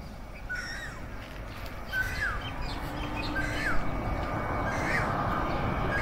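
A bird calls over and over, a short hooked note about every second and a half, while the rumble of a jet airliner on landing approach grows steadily louder.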